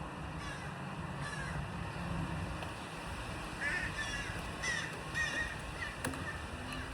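Crows cawing several times in short calls over a steady low background noise.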